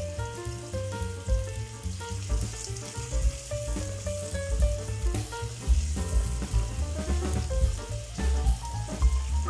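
Chopped onion and green bell pepper sizzling as they fry in oil in an aluminium pot, stirred with a spatula, at the stage of frying until translucent. Background music with a melody and a steady bass beat plays over it and is the loudest sound.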